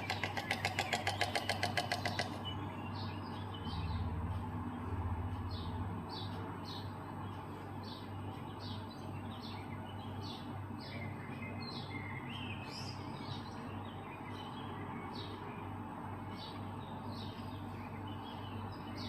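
Storks clattering their bills: a fast, dry rattle of clicks that stops about two seconds in. After that, small birds chirp briefly about twice a second over a steady low hum.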